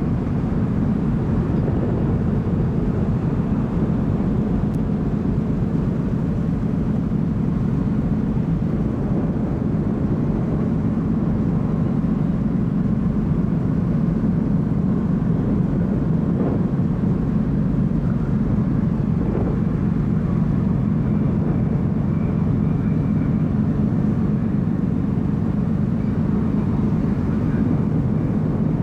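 Steady low rumble on board a car ferry under way, its engines and the rush of air and water running evenly without change.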